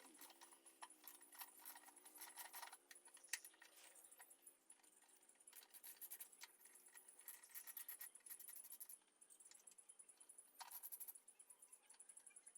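Faint irregular metallic clinking and rattling, in scattered clicks and short jingling clusters.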